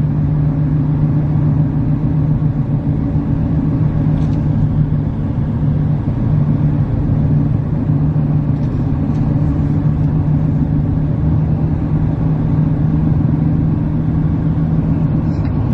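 Steady drone of a car driving, heard from inside the cabin: a low, even engine hum over road noise.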